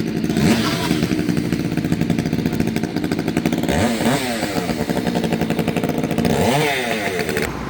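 Chainsaw idling, with three quick throttle revs that rise and fall in pitch: about half a second in, around four seconds in, and near the end.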